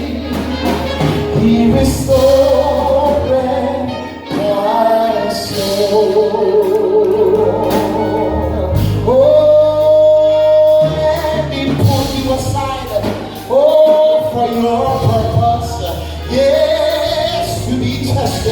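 Gospel song sung with band accompaniment: singing voices with several long held notes over a steady bass line.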